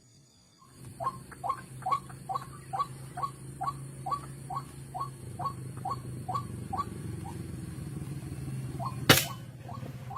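White-breasted waterhen calling: a short note repeated about twice a second, fading and thinning out after about seven seconds, over a steady low hum. A single sharp click about nine seconds in is the loudest sound.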